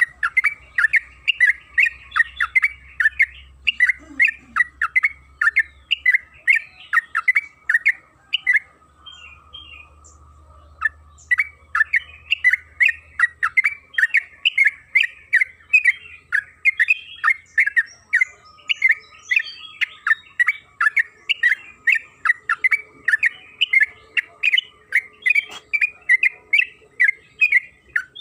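Yellow-vented bulbul singing a long, fast run of chattering notes, several a second, with one pause of about two seconds about a third of the way in.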